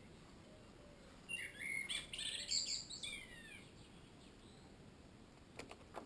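A bird singing a short burst of quick chirps and whistles for about two seconds, starting about a second in, over faint background hiss. A couple of faint clicks follow near the end.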